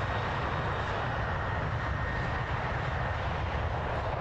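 Boeing 737-800's twin CFM56 turbofan engines at takeoff thrust on the takeoff roll: a steady, loud rumble with a faint high whine running through it.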